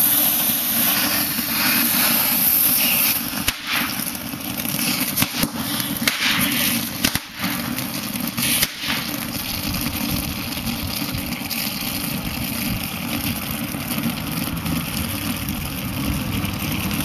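A cluster of eight quick-fused novelty firework tanks burning together: a loud hiss of spraying sparks, then several sharp crackling pops scattered over the next few seconds, settling into a steady fizzing. Wind rumbles on the microphone underneath.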